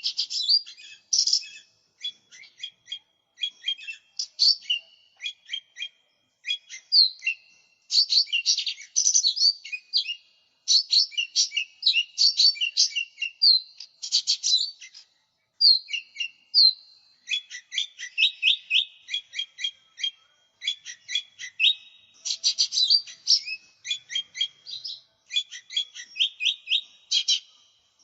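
Cucak ijo mini leafbird singing energetically: a continuous run of quick, varied chirps and short trills, high-pitched, with only brief pauses between phrases.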